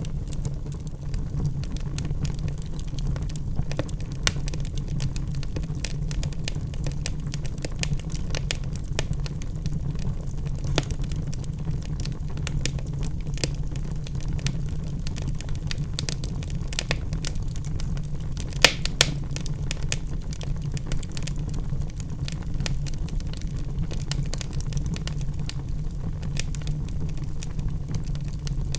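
Wood fire burning in a fireplace: a steady low rumble of the flames with frequent sharp crackles and pops from the burning logs, two louder pops about eighteen seconds in.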